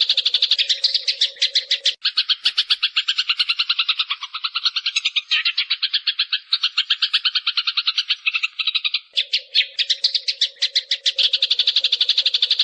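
Sparrows chattering in a dense, unbroken run of rapid chirps, several notes a second: a recorded sparrow decoy call played as a lure for trapping birds. A low steady hum runs under it for the first two seconds and returns about nine seconds in.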